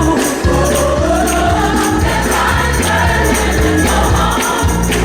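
Gospel choir singing over instrumental accompaniment with a steady beat.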